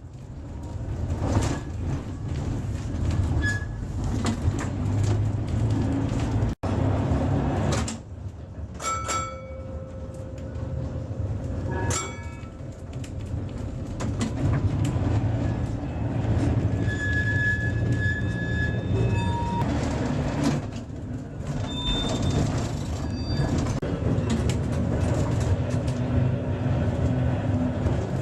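A 1913 electric tram running along its track: a steady rumble of wheels and motors with rapid clicks and knocks over the rails. Two short ringing tones come about nine and twelve seconds in, and a brief high squeal comes about seventeen seconds in.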